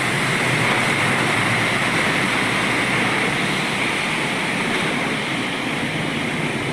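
Steady hiss of road traffic passing on a wet road in drizzle.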